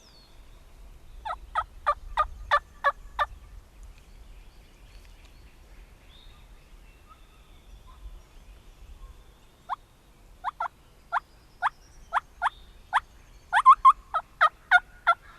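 Turkey yelping from a hunter's turkey call: runs of loud, sharp, raspy notes about three a second. A short run comes first, a single note follows after a gap, and a longer run near the end quickens into a tight cluster of notes.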